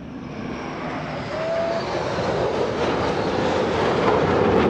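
Jet engine roar of a USAF Thunderbirds F-16 growing steadily louder as the jet approaches, with a faint high whine falling in pitch near the start.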